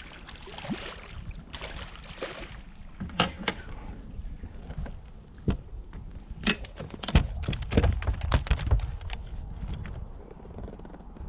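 A hooked striped bass being landed at the side of a small fishing boat: water splashing in the first few seconds, then a series of sharp knocks, with a cluster of heavy thumps about seven to nine seconds in.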